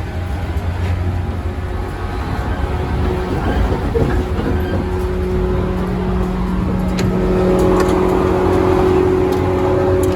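115 series electric train running, heard from on board: a low rumble of wheels on track with a motor hum whose steady tones come in about halfway, the noise growing a little louder near the end, with a few sharp clicks.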